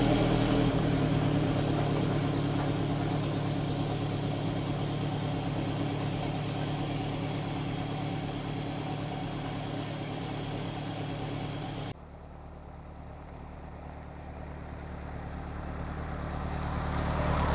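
Ford Model T's four-cylinder engine running steadily as the car drives off, fading away; after a sudden cut about twelve seconds in, it grows louder as the car comes closer.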